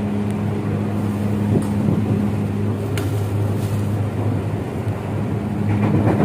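KRL commuter electric train running, heard from inside the car: a steady rumble with a low hum, and one sharp click about three seconds in.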